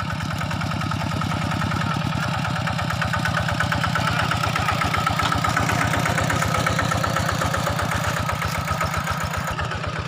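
An engine running steadily at a constant speed, with a fast, even chugging of about ten beats a second.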